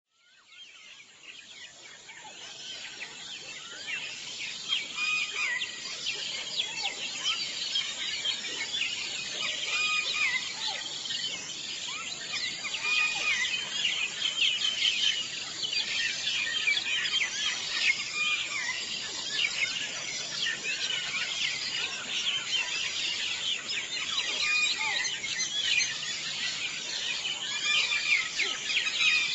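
Many birds chirping together in a dense, continuous chorus of short high calls, fading in over the first few seconds.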